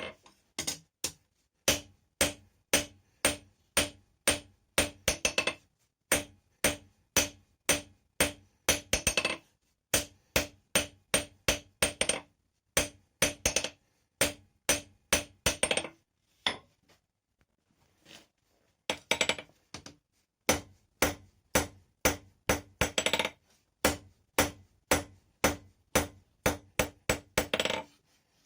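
Blacksmith's hammer forging hot rebar on an anvil: steady ringing blows about two a second, broken every few seconds by quick runs of lighter taps, with a pause of about two seconds just past halfway.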